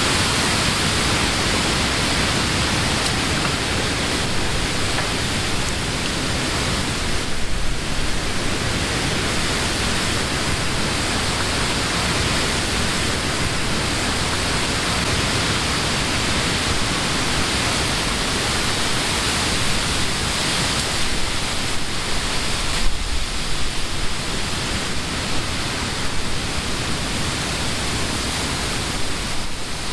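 Wind blowing steadily through leafy trees, a dense even rush of rustling leaves that swells and eases slightly.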